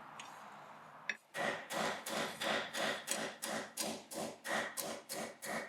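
Hand hammer forging steel on an anvil in a steady rhythm of about three blows a second, starting about a second in, each blow followed by a short anvil ring.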